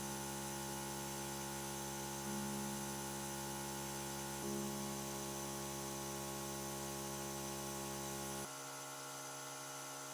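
A small electric power tool's motor running steadily with an even hum, starting and stopping abruptly; it drops a little in level about eight and a half seconds in.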